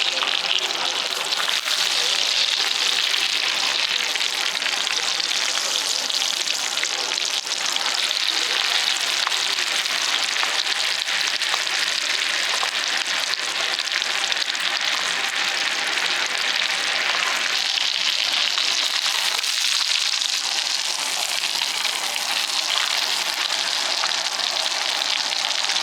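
Sirloin steak sizzling steadily as it sears over an oak-wood fire.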